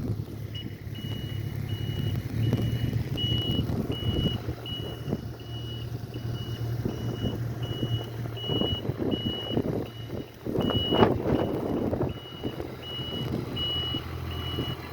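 Snow plow truck's backup alarm beeping at an even pace, a little more than once a second, over the steady low running of the truck's engine. A louder rough burst of noise comes about eleven seconds in.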